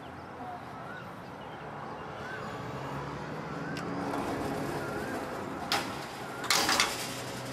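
A bird repeats a short, curved whistled note about once a second over the low hum of a passing vehicle. A sharp clatter comes about six seconds in, followed by a longer, louder rattle.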